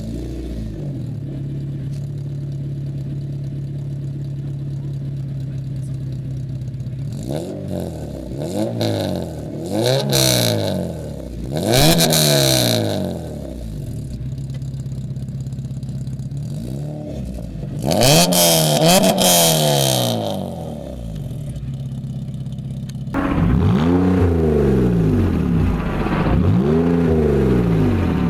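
Car engine idling, then revved in neutral again and again: each rev climbs in pitch and falls back to idle, in three groups of quick blips with a steady idle between.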